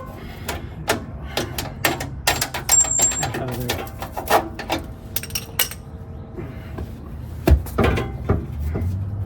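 Hand tools and metal exhaust parts clinking and knocking irregularly while a rusted car exhaust is worked loose, with one harder knock about seven and a half seconds in.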